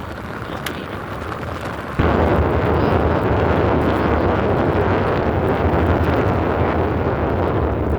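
Wind buffeting the microphone while riding an e-bike, a steady rush of noise that jumps suddenly louder about two seconds in.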